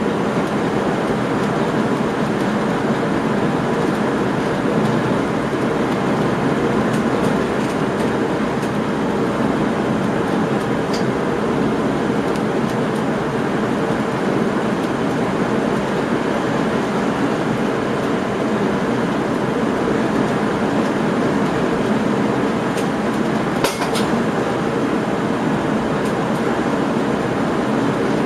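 Train running along the track, heard from inside the driver's cab: a steady rumble and rush of wheels on rails. A single sharp click or knock comes near the end.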